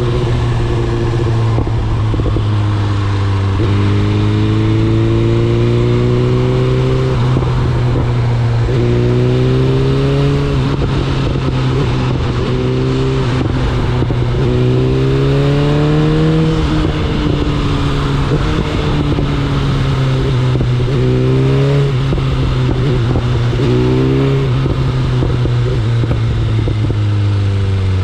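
BMW S1000RR's inline-four engine running under way, its note rising again and again in short pulls through the revs with breaks between, and falling away near the end.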